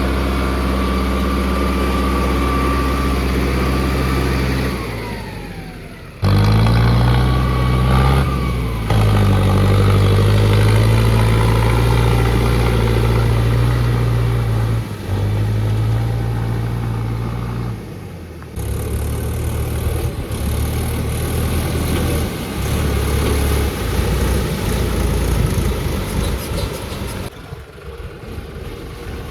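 Tractor diesel engines running steadily and revving, with the pitch falling away about six seconds in. The sound changes abruptly several times, near six, eighteen and twenty-seven seconds.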